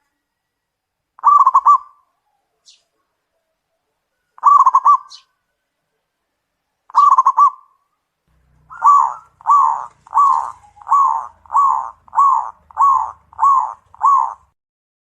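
Zebra dove (perkutut) cooing: three short trilled coos a few seconds apart, then a quick run of about nine evenly spaced coos, roughly two a second.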